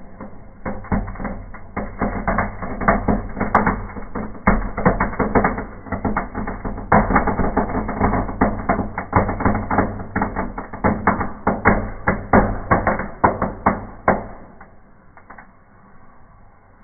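Small fireworks burning in a fireplace, a dense run of rapid crackling and popping that starts about half a second in and dies down near the end.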